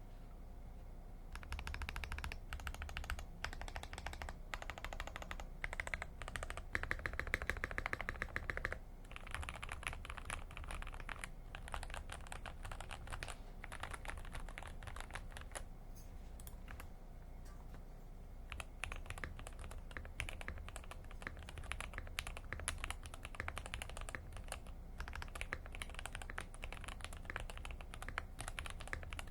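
Typing on a CIY GAS67 mechanical keyboard with mintcaps keycaps: a quick, continuous run of key clacks that starts about a second in and thins out briefly about two-thirds of the way through.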